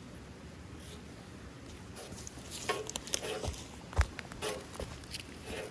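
A run of short scrapes and clicks from someone trying to light the tinder in a rocket stove, with one sharp click about four seconds in.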